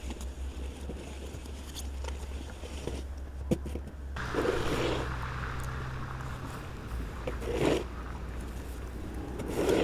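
Small engine running steadily with a low pulsing note, typical of a snowblower, with three louder scraping sounds over it at intervals of two to three seconds.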